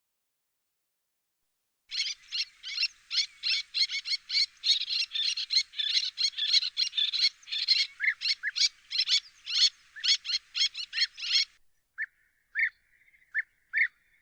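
Songbird singing: after a silent start, about two seconds in, a long fast stream of varied chirps and trills runs for nearly ten seconds, then a few separate short notes follow near the end.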